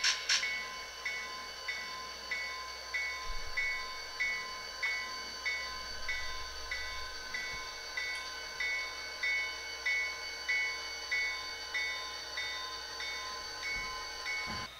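HO-scale Athearn Genesys GP40-2's SoundTraxx Tsunami2 sound decoder ringing the locomotive bell in an even, steady rhythm of about one and a half strokes a second, over a steady hum from the decoder's engine sound. There is a single sharp click near the start.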